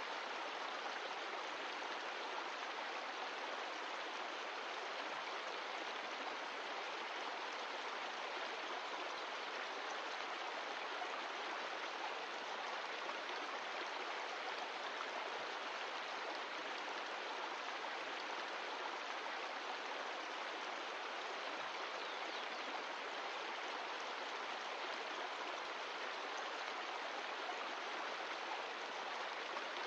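Patagonian mountain stream of glacial meltwater rushing over rocks, a steady, unbroken rush of water.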